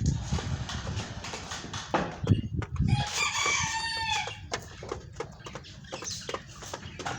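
A bird gives one long, ringing call lasting a little over a second, about three seconds in, over low thumping rumbles earlier on and scattered short clicks.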